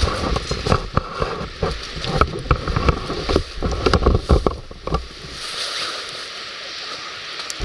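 Wood fire crackling and popping in a fire pit, with wind buffeting the microphone; the low buffeting drops away about five seconds in, leaving a steadier hiss.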